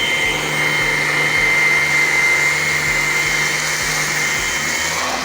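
Hoover ONEPWR Blade+ cordless stick vacuum running on its boosted power setting: a steady high motor whine over a rush of air.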